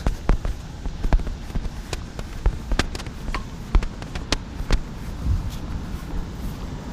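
Scattered sharp clicks and taps, irregular and several a second, over a steady hum of running air-conditioning units.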